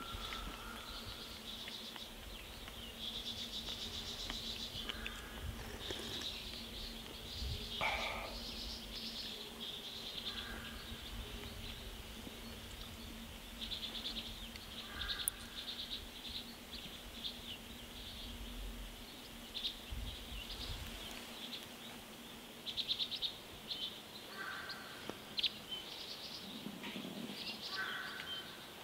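Small birds chirping and trilling on and off in short bursts, over a low rumble that stops about three-quarters of the way through.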